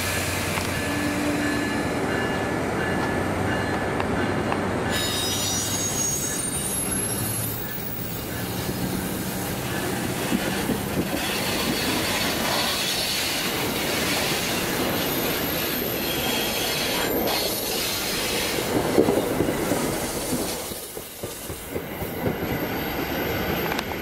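New Jersey Transit commuter coaches rolling past close by, steel wheels running on the rails with some squealing and clickety-clack, steady in loudness with a short dip near the end.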